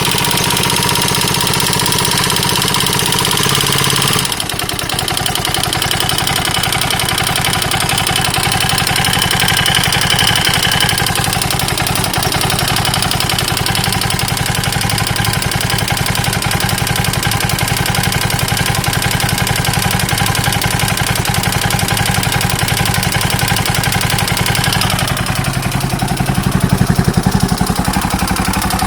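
KTM 640 LC4 single-cylinder four-stroke engine idling with an abnormal mechanical knocking noise, which the owner cannot place as top end or bottom end. The revs rise briefly near the end.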